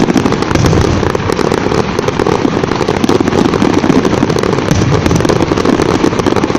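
Aerial fireworks going off in a continuous, rapid barrage of many short bangs and crackles.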